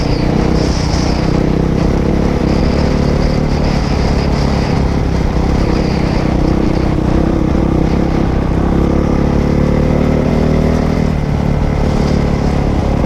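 Dirt bike engine running steadily while being ridden, its pitch rising and falling a little.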